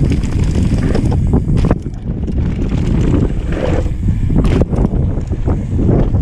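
Mountain bike riding over a dirt trail, with wind buffeting the on-board camera's microphone and scattered knocks and rattles from the bike over bumps.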